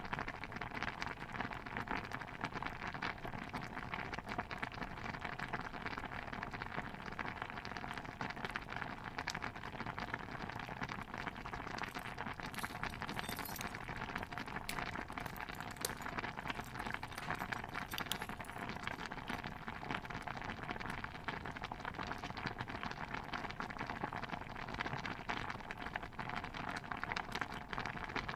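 Stew bubbling in a cauldron: a dense, steady bubbling crackle, with a few sharper clicks partway through.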